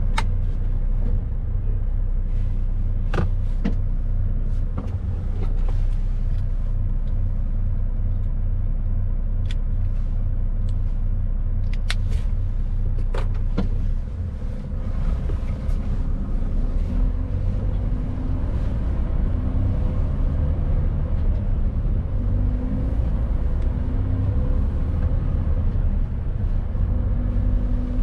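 Mercedes-Benz Actros truck driving loaded to 19 tons: a steady, heavy diesel rumble with road noise and a few sharp knocks. There is a brief dip in level about halfway, then the engine note climbs in short repeated steps through the second half.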